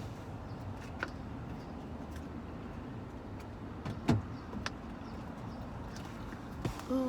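A few sharp clicks and knocks of handling at a car, the loudest about four seconds in, over a steady low hum. Just before the end a car's electric power window motor starts to run with a steady whine.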